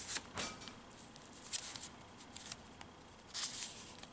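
Handmade junk journal being handled: several brief paper rustles and light ticks as its pages and tucked-in paper cards are moved.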